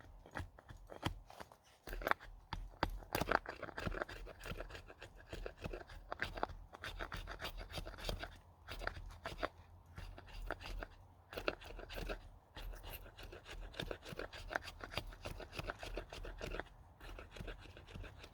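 Knife or hand tool shaving wood: a long, irregular run of short crunchy scraping strokes.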